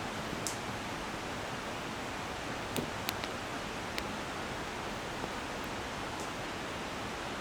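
Steady rushing of a clear mountain river flowing close by, with a few short sharp clicks over it, about half a second in and around three and four seconds in.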